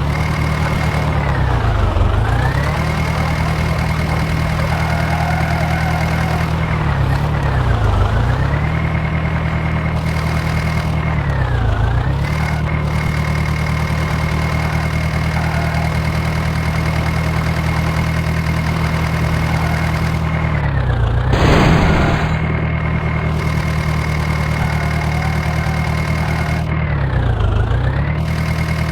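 John Deere 5055 tractor's diesel engine running steadily. Its pitch briefly dips and recovers about five times, and a short loud burst of noise comes about three quarters of the way through.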